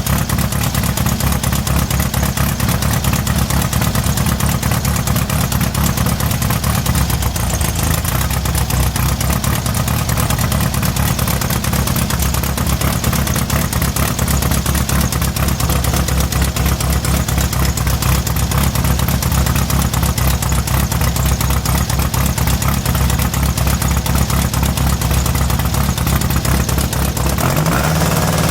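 Air-cooled VW flat-four engine idling steadily on a freshly installed electronic distributor, not yet timed. Its note shifts slightly near the end.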